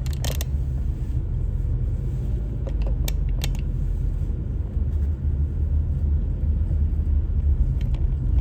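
Steady low rumble of a car on the move, with a few faint clicks near the start and again about three seconds in.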